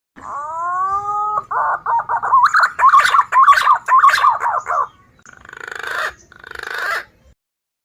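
Green pigeon (punai) call used as a bird lure: a rising whistle, then a quick run of warbling whistled notes for a few seconds, ending with two short harsh rasps.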